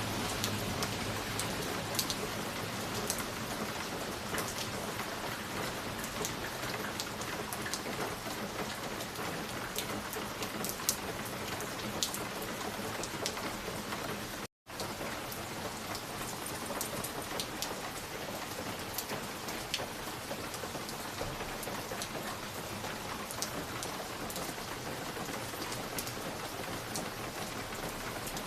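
Looped ambience track: a steady hiss dotted with scattered sharp crackles and pops. It cuts out completely for a split second about halfway through.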